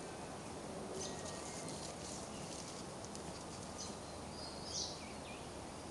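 Faint steady outdoor background noise with a few high bird chirps, the clearest a short chirp near the end.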